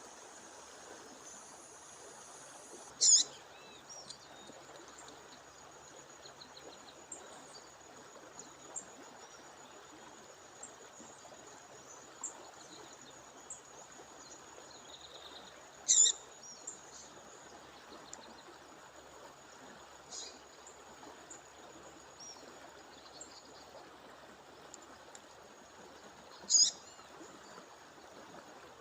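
A female songbird giving a short, sharp high call three times, about ten seconds apart, with a few faint chirps between, over the steady rush of a waterfall and stream. A thin, steady high-pitched tone runs underneath.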